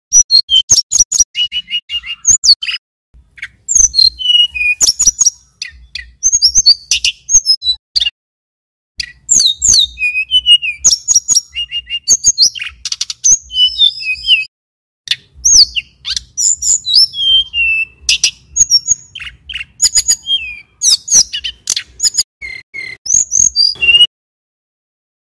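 Male tledekan gunung (sulingan gunung) singing continuously: rapid runs of sharp chirps, whistles and trills in quick phrases broken by brief pauses, the song stopping shortly before the end.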